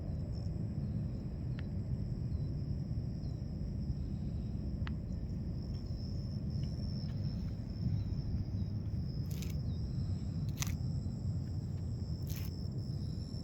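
Outdoor ambience: a steady low rumble with a thin, steady high-pitched hum and small repeated chirps over it. Three short scratchy clicks come in the last few seconds.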